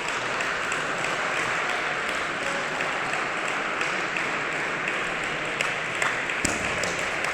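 Spectators applauding steadily for several seconds, with a few sharp clicks and a low thump near the end.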